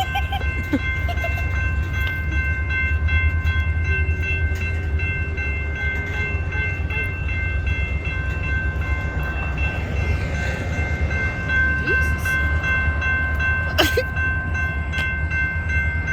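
EMD GP40-2 diesel-electric locomotive running with a steady low rumble and a steady high whine. A single sharp knock comes near the end.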